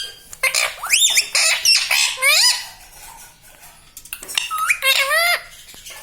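Indian ringneck parrot calling and squawking in several high, gliding bursts: a few around the first two and a half seconds, then a run of rising calls just past the middle.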